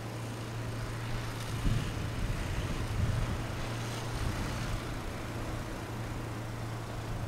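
Steady low engine hum, like a vehicle idling, with a few louder rough bursts around two and three seconds in.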